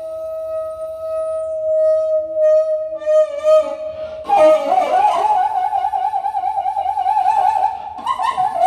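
Daegeum, the Korean large bamboo transverse flute, playing a solo improvisation: one long held note for about four seconds, then a higher note with a wide, heavy vibrato that steps up again near the end.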